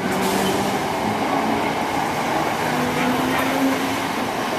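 Southern Class 377 Electrostar electric multiple unit moving along the platform: a steady running noise of wheels on rails and the train's equipment, with faint steady tones.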